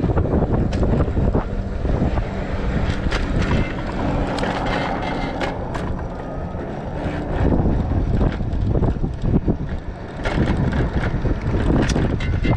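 Wind buffeting the microphone while riding an electric bike, with scattered clicks and knocks.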